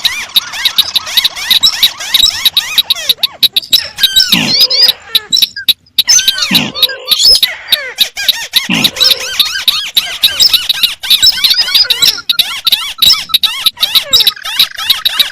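Recorded calls of rice-field crakes, the white-browed crake among them, played together as a lure: a dense, overlapping chatter of rapid high squeaky notes, out of step with one another. Three low falling notes stand out about a third, halfway and two thirds of the way through, among frequent sharp clicks.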